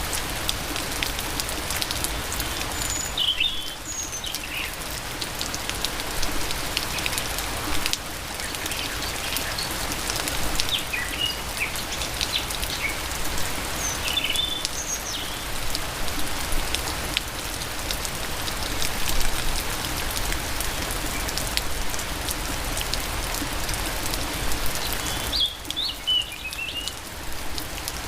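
Steady rain falling, with many individual drops tapping on surfaces. A bird chirps briefly a few times, about three seconds in, in the middle and near the end.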